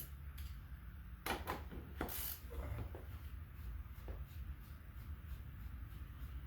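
A few short knocks and clicks of metal parts being handled as a motorcycle front wheel axle is worked into place, bunched between about one and two seconds in, with one more near four seconds, over a steady low hum.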